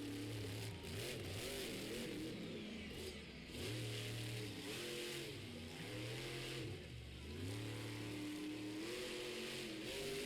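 Monster truck engine revving hard and dropping back again and again during a freestyle run, its pitch climbing and falling several times.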